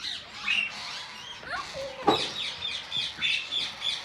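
Ringneck parakeets squawking in an aviary: many short, repeated high calls, with one louder sharp sound about two seconds in.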